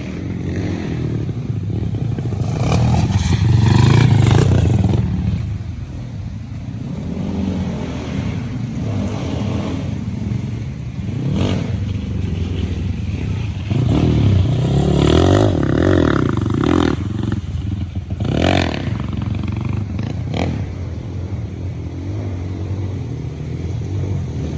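Underbone motorcycle engines revving and easing off as the bikes ride a dirt motocross track. The engine sound swells loudest twice, a few seconds in and again past the middle.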